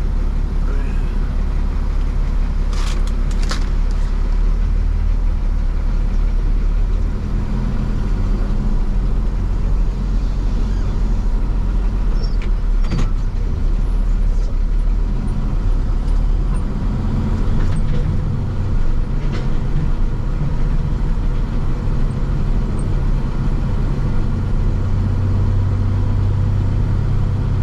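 Truck driving on the road: steady engine drone and road noise, the engine note shifting in pitch several times.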